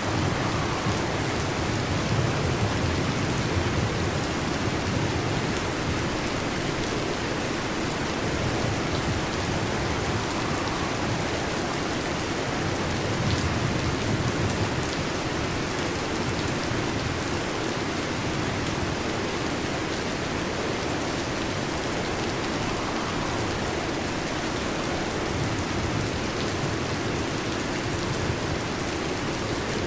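Heavy rain falling on a metal roof, a steady even downpour with no pauses.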